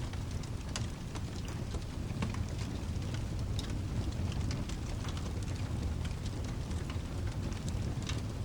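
Rain and fireplace ambience: steady rain over a low, continuous rumble, with scattered sharp crackles and pops from a wood fire throughout.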